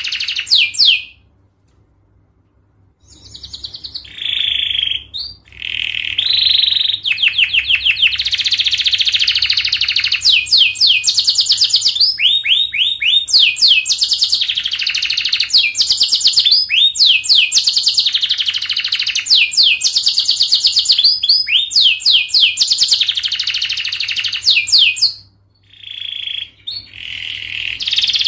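Domestic canary singing long, fast trills, phrase after phrase of rapid repeated notes. There is a short break about a second in and another brief pause near the end.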